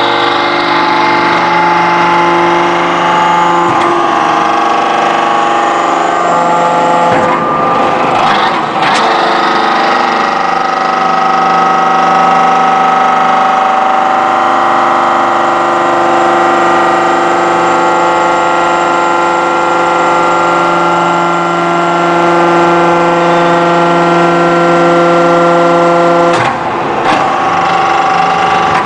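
Y81-130 electro-hydraulic scrap metal baling press running, its hydraulic power unit giving a loud, steady whine of several held tones that shift in pitch a few times. Rougher, noisier stretches come about seven to nine seconds in and again near the end.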